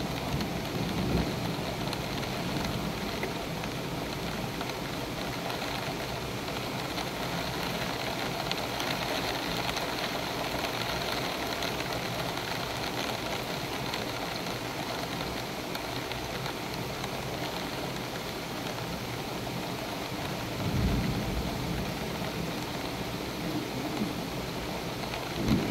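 Heavy rain pouring steadily during a thunderstorm, with a short low rumble about three-quarters of the way through.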